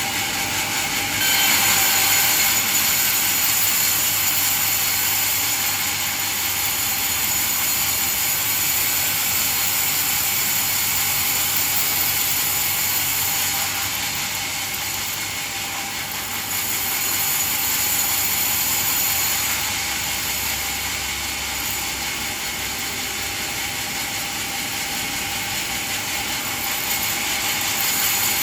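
Band sawmill running, a steady high-pitched hiss with a faint whine, getting louder about a second in.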